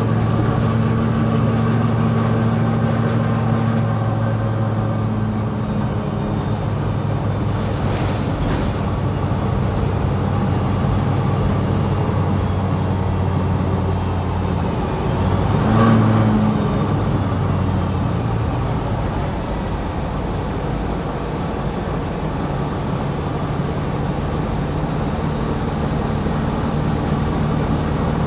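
2020 New Flyer XD60 articulated city bus driving, its engine and drivetrain running steadily over road noise. The engine note changes about six seconds in, and there is a brief louder noise about sixteen seconds in.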